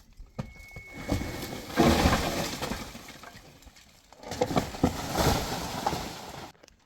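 Two bursts of clattering, crunching noise from loose hard material being moved, each about two seconds long, the first louder.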